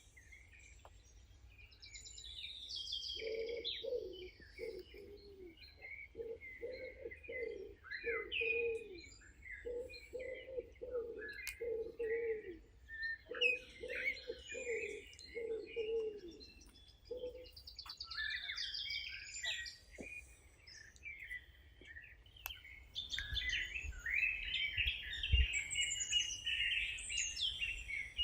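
Several wild birds chirping and singing at once, with a lower call repeated over and over for about fourteen seconds in the first half.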